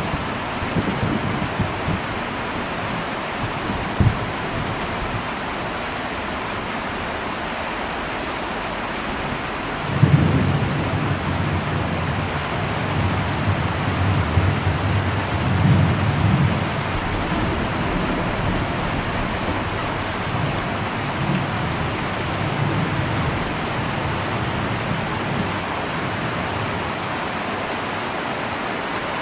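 Heavy rain falling on an old metal roof as a steady hiss, with a single sharp knock about four seconds in. Thunder rumbles in suddenly about ten seconds in, swells again a few seconds later and fades away.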